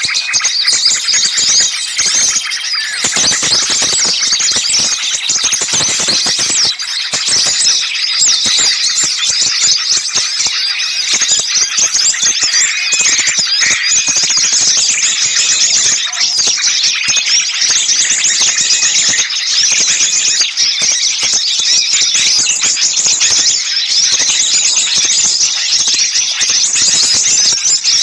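A dense chorus of many small songbirds calling noisily at once: rapid, high-pitched chirps, twitters and trills overlapping without a break, the agitated 'noisy small birds' mix used as a bird-lure recording.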